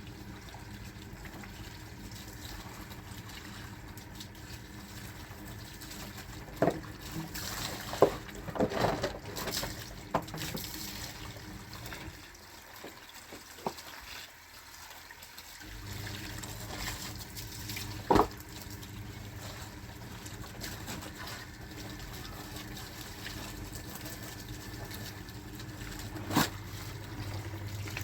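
Washing machine running with water sloshing and trickling over a low steady hum. The hum stops for about three seconds midway, then resumes. A few sharp knocks come through, the loudest about a third of the way in.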